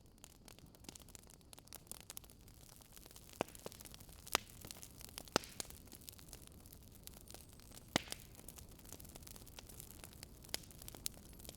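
Wood fire in a fireplace crackling: irregular snaps and pops over a soft steady hiss, with a few louder pops about four, five and eight seconds in.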